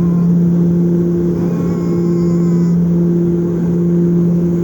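Propeller airliner's engines and propellers droning steadily, heard from inside the cabin as a loud, even hum with a strong low tone.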